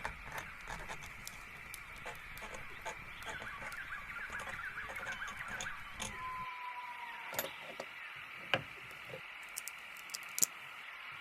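Birds chirping and twittering in a busy chorus over a steady high hiss, with one drawn-out, slightly falling call about six seconds in. The low rumble underneath drops away soon after, and a few sharp clicks follow.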